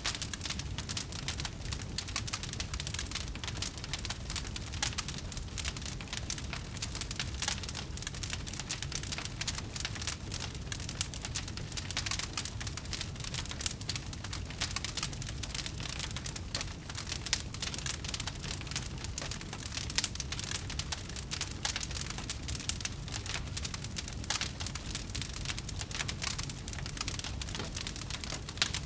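Campfire burning with dense, continuous crackling and popping from the burning wood, over a low steady rumble of the flames.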